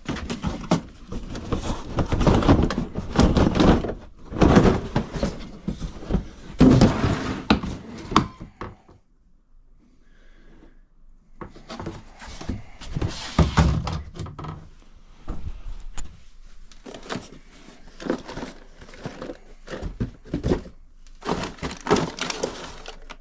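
Knocks, thuds and clatter of parts, boxes and bins being moved and handled while rummaging through plumbing supplies, with a quieter pause about ten seconds in.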